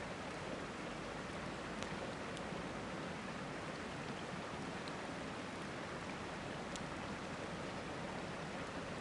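A river rushing steadily, with a few sharp pops from a crackling campfire, one at about two seconds in and another near seven seconds.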